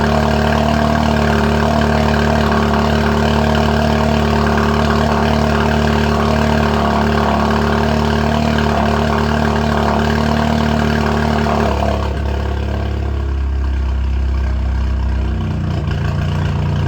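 Seat Leon Cupra 5F's turbocharged 2.0-litre four-cylinder running through a straight-piped exhaust with downpipe and 200-cell catalytic converter, at a steady loud idle. About twelve seconds in the note drops lower and softer, and it shifts once more near the end.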